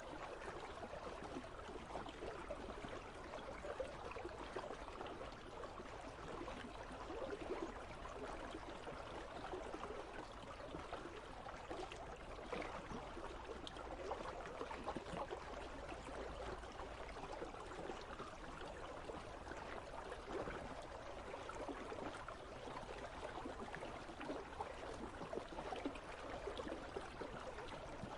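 Icy river flowing: a steady rush of running water with no break or change.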